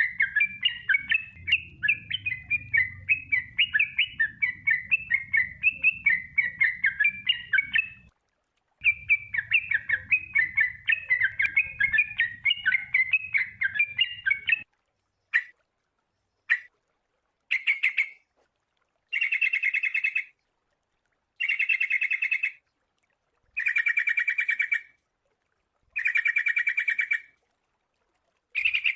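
Sooty-headed bulbul (kutilang) song: a fast, continuous run of chattering whistled phrases for about fifteen seconds. After a short break and a few single notes, it gives a series of short trilled phrases about every two seconds.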